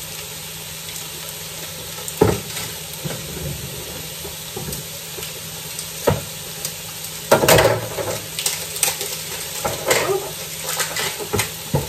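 Courgette and mushrooms sizzling steadily in a frying wok. Sharp clinks and clatters from a tuna can and utensils being handled cut through it, the loudest a couple of seconds in and a cluster about seven seconds in.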